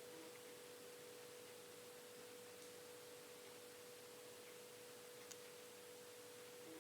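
Near silence: faint hiss with a steady, faint high hum throughout, and one small tick about five seconds in.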